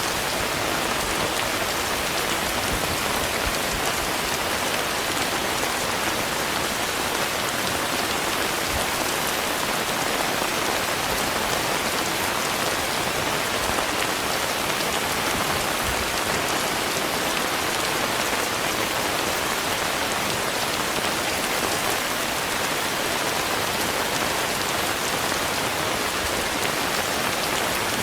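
Steady rain falling, a dense even hiss of drops that holds at the same level throughout.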